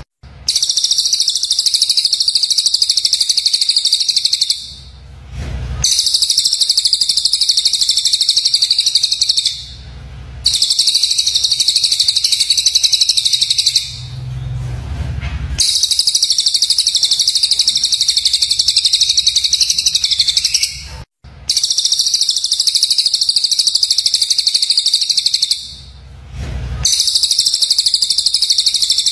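Recorded songbird calls used as bird-master audio: a fast, harsh, rapid-fire chattering in high-pitched phrases several seconds long, each broken off by a short pause of about a second before the next begins.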